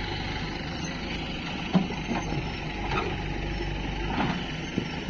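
Diesel engine of a heavy machine running steadily, with several sharp knocks and clanks over it.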